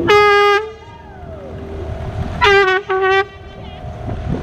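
A horn sounding: one blast of about half a second, then two short blasts close together about two and a half seconds in.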